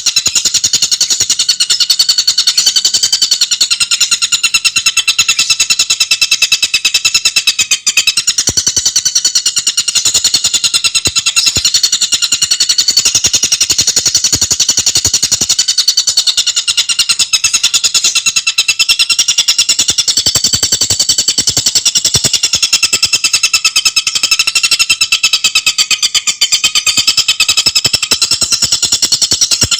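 Tengkek buto bird singing a fast, unbroken chattering song: high-pitched notes repeated very rapidly and tightly, wavering slightly in pitch, with brief breaks about 8 and 26 seconds in.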